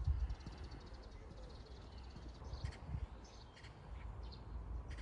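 Birds chirping in short, scattered calls over a low rumble.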